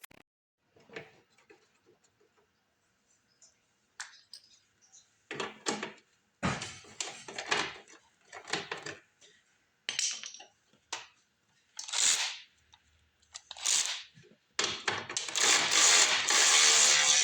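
Hand tools and small metal parts clinking and scraping in a series of short, separate clatters, then a steady noisy whirring for the last few seconds, typical of a power tool running.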